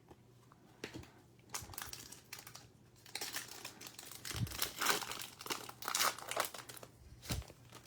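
A trading card pack's wrapper being torn open and crinkled by hand: a run of short rustles and crackles that thickens in the middle.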